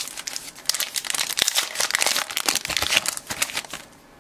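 Baseball card pack wrapper crinkling as it is opened and handled, a dense run of sharp crackles that dies away near the end.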